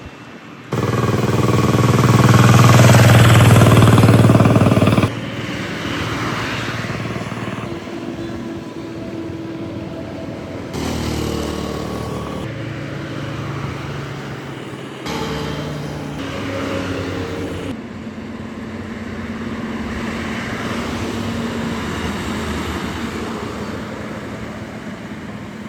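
Road traffic: vehicle engines running over road noise, loudest for a few seconds near the start, then changing abruptly several times.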